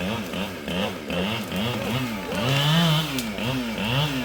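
Two-stroke chainsaw running, its engine pitch rising and falling over and over, about two to three times a second, as the throttle is worked up and down.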